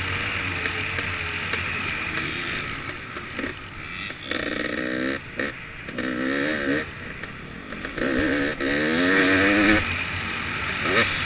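Dirt bike engine running on a motocross track, steadier for the first few seconds, then revved in three bursts about two seconds apart as the throttle is opened and closed.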